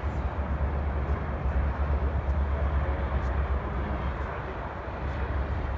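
Distant drone of an RC airplane's DLE-55 single-cylinder two-stroke gasoline engine in flight, steady, under heavy low wind rumble on the microphone.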